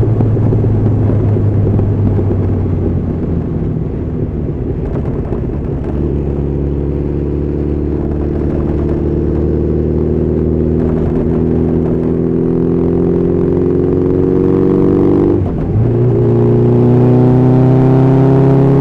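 Honda CB1300SF's inline-four engine running under load while riding, its pitch climbing slowly from about six seconds in. About fifteen seconds in the sound dips briefly, a gear change, then the engine note climbs again.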